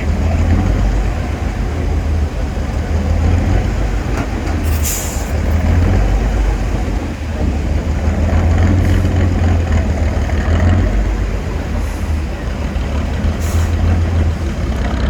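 Heavy 8x8 trial truck's diesel engine running under load with a deep, steady rumble. Short hisses of air, like air-brake releases, come about five seconds in and again near the end.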